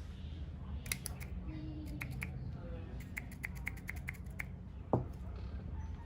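A run of sharp light clicks, a few at a time and then about nine in a quick even series, followed by one louder knock, over a low steady hum.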